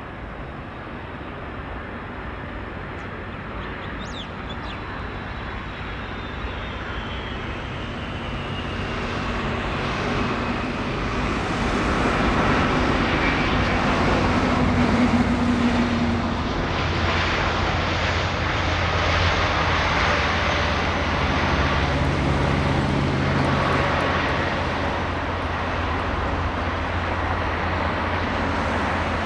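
Jet airliner's engines passing, growing louder to a peak about halfway through and staying loud. A high tone slides down in pitch as the aircraft goes by.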